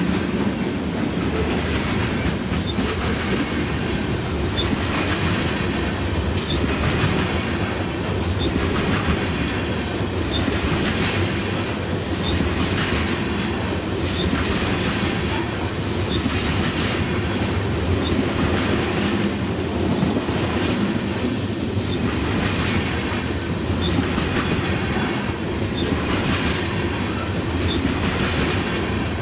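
Freight train of covered hopper cars rolling past close by: a steady rumble of steel wheels on rail. A clickety-clack of wheel sets over the rail joints comes about every two seconds as each car goes by.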